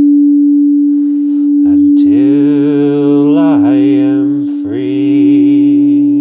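A singing bowl holds one steady, unbroken tone. From about two seconds in, a man's voice sings a long held note with vibrato over it, breaking briefly for a breath near the middle.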